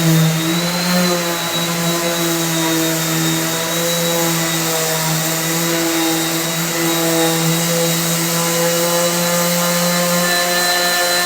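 Electric sander running steadily, sanding pine with 80-grit paper: an even motor hum over a hiss.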